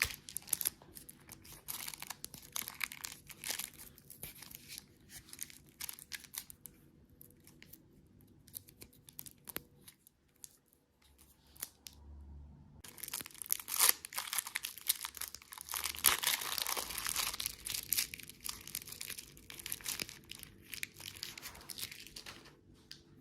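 Crinkly plastic candy or snack wrappers being torn open and crumpled. The crackling comes in close bursts, pauses briefly about ten seconds in, then returns denser and louder for most of the second half.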